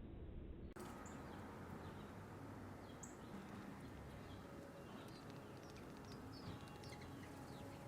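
Faint outdoor ambience: a steady low rumble with scattered short, high bird chirps, which set in abruptly a little under a second in.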